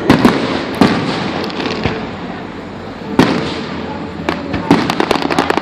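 Fireworks exploding: a few loud booms in the first second and another about three seconds in, then a quick run of crackling reports near the end.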